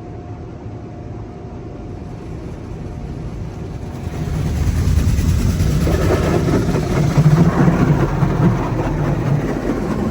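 Petit AccuTrac 360-i in-bay automatic car wash working over the car. A steady low rumble grows much louder about four seconds in into a dense rushing of spray or air, which eases near the end.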